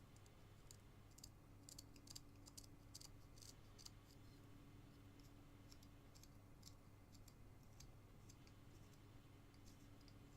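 Faint, irregular small clicks and scrapes of a carving knife shaving basswood, in scattered clusters, over a low steady hum.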